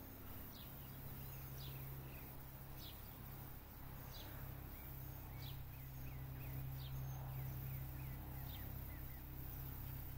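Faint outdoor evening ambience with small birds chirping: short, high, falling chirps every second or so over a low steady hum.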